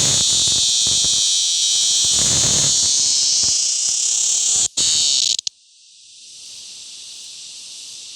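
Male cicada buzzing loudly and shrilly, the sound made by its vibrating tymbals. The call breaks briefly, then cuts off suddenly about five seconds in, and a quieter buzz builds up again afterwards.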